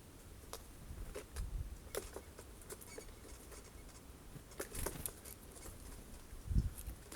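Irregular sharp taps and clicks with a few soft thumps: jays pecking and hammering at sunflower seeds on a bird feeder.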